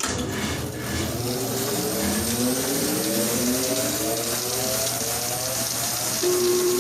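American 38-inch bandsaw switched on and spinning up: a rushing whir with a whine that climbs steadily in pitch as the big wheels come up to speed, settling into a steady, slightly louder hum about six seconds in.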